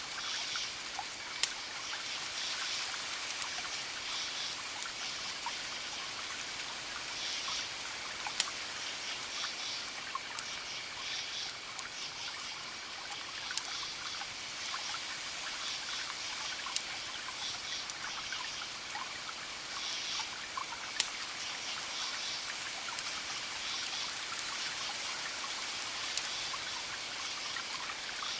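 Campfire crackling, with a handful of sharp pops, over crickets chirping in repeated pulsing trills and the steady hiss of distant waves on the shore.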